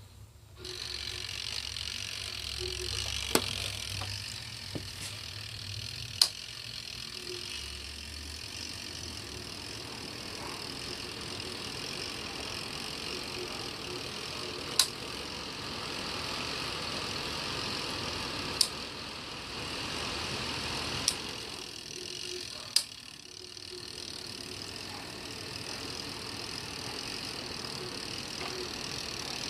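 ATVIO HOME tower fan running, a steady airflow hiss that starts about half a second in. Sharp clicks come every few seconds, and the airflow drops briefly a little after twenty seconds before rising again.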